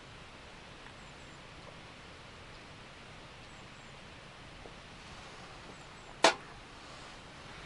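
Faint steady background hiss, with one sharp, loud knock or crack about six seconds in.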